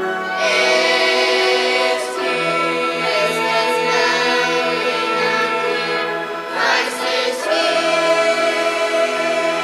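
Choir singing a Christmas song, with long held notes.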